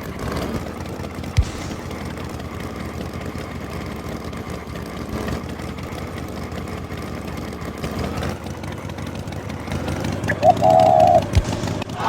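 Cartoon farm tractor engine sound effect running steadily, with a single knock about a second and a half in. Near the end comes a short, louder pitched sound lasting under a second.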